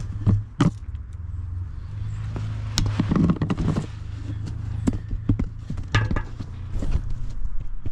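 Scattered knocks and clinks of a metal fuel tank strap and bolt being handled and fitted under a pickup truck, over a steady low hum.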